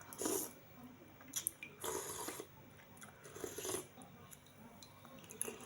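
A person eating bakso (Indonesian meatball soup) close to the microphone: wet chewing and biting in several short bursts, with pauses between.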